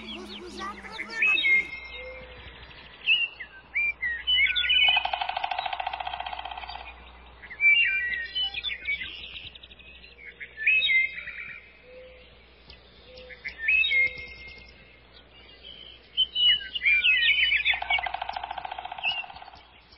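Birds singing: short phrases of quick chirps and gliding whistles every few seconds, with a long rattling trill twice, about five seconds in and near the end.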